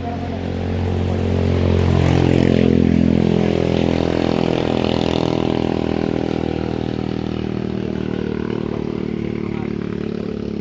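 Truck engine running hard under load on a steep climb, a low steady drone. It swells to its loudest about two seconds in, then eases off slightly.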